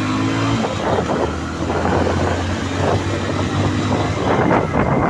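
A vehicle engine running on the move, with wind rushing over the microphone.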